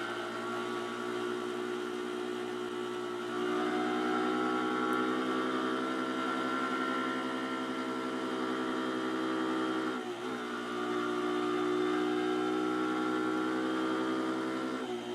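Pit bike engine running at a steady cruising speed under way, getting louder about three and a half seconds in, with a brief dip in pitch and level about ten seconds in.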